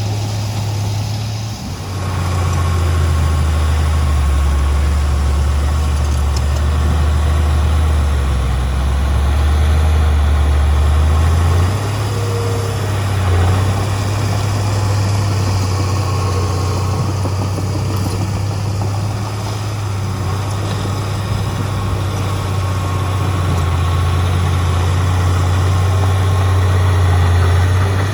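Heavy diesel engine of earthmoving machinery running steadily, its low note dropping about two seconds in and rising again near twelve seconds.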